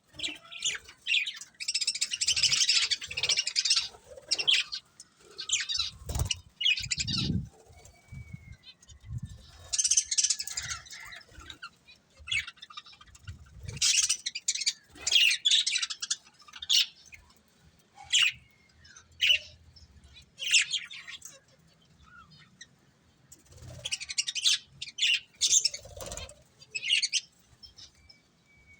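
Budgerigars chirping and chattering in irregular bursts of high chirps with short pauses between them, along with a few soft low thumps.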